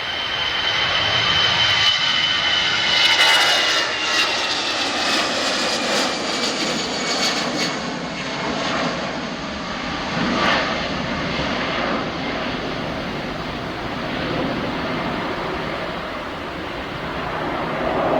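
Airliner engines passing close by: a steady rushing rumble with a whine that falls in pitch as the aircraft goes past, loudest a few seconds in.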